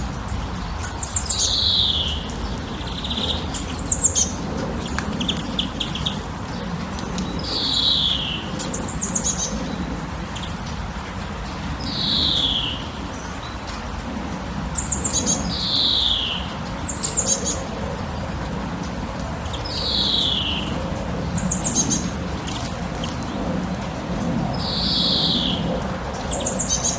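Songbirds calling repeatedly: a clear note sliding down in pitch every four seconds or so, alternating with shorter, higher chirping trills, over a steady low rushing background noise.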